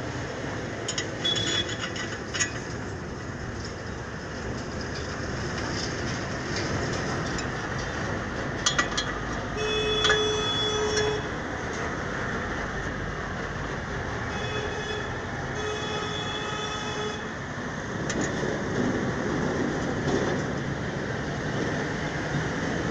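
Steady vehicle-like rumble, with a few sharp clinks near the start and two spells of short, pitched horn-like tones in the middle.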